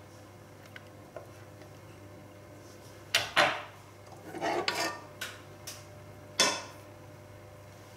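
Kitchen knife and lasagne sheets knocking against a plastic cutting board: about half a dozen sharp clacks, starting about three seconds in.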